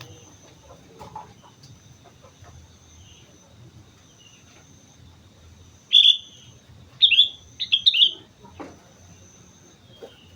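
Sooty-headed bulbul (kutilang) calling: one loud, short note about six seconds in, then a quick run of several sharp, falling notes a second later.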